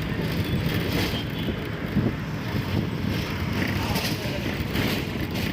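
Steady low rumble of road traffic in a busy city.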